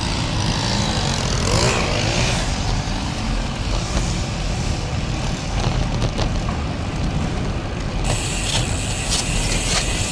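Wind rushing over the microphone of a moving bicycle, a steady low rumble with road noise. About eight seconds in, a fast, even ticking joins it: the rear hub's freewheel ratchet clicking as the rider coasts.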